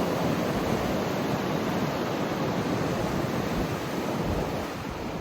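Strong wind blowing steadily in a snowstorm, with gusts buffeting the microphone in low rumbles.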